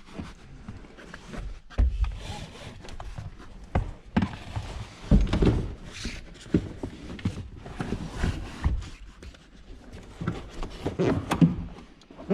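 Hands-on work on car interior trim: irregular knocks, thuds and rubbing as parts are handled and pushed into place, with the heaviest thuds about two seconds in, around five seconds in and near the end.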